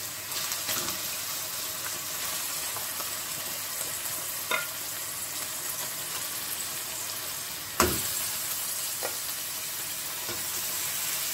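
Onions frying in oil in an aluminium pot, a steady sizzle, while raw lamb chops are laid in one by one. A few soft clicks, and one sharp knock about eight seconds in.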